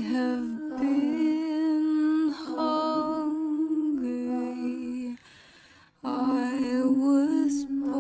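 A voice humming a slow tune in long held notes with a wavering vibrato, breaking off briefly about five seconds in and then resuming.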